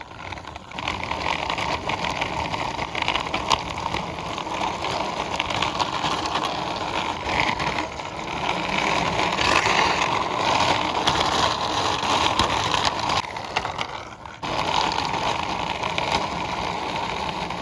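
Plastic toy car's wheels rolling along a rough concrete boundary wall as it is pushed by hand: a steady gritty rolling noise with many small clicks, dipping briefly about fourteen seconds in.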